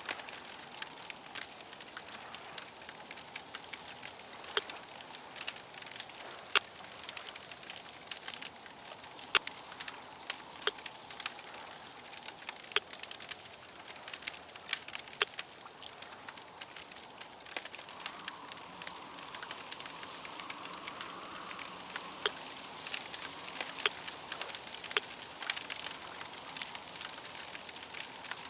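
Wood fire crackling, with irregular sharp pops over a soft steady hiss.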